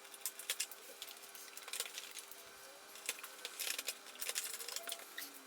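Irregular light clicks and clinks over a faint steady hum.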